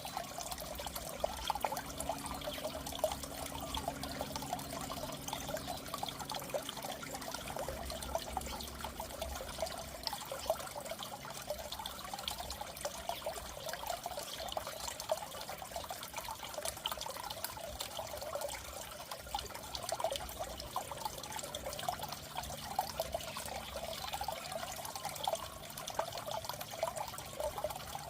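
Goldfish aquarium water trickling and splashing steadily. A faint low hum comes and goes beneath it.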